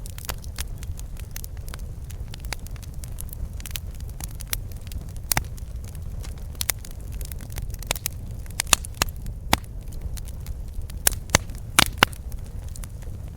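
Campfire crackling, with irregular sharp pops and snaps, several of the loudest coming close together in the second half, over a steady low rumble.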